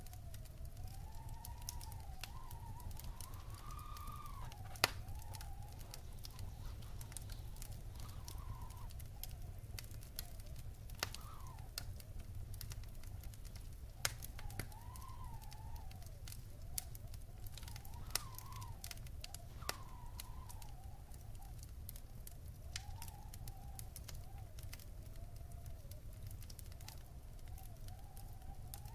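Wood fire burning in a fireplace: a steady low rumble with constant small crackles and a few sharper pops. A faint whistling tone drifts slowly up and down underneath.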